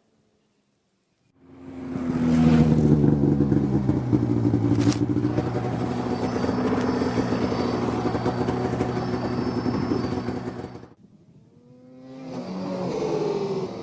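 Arctic Cat ZR900 snowmobile's three-cylinder two-stroke engine running, starting abruptly about a second and a half in and holding a steady pitch for about nine seconds before cutting off sharply. After a short gap the engine is heard again, its pitch climbing as it revs up.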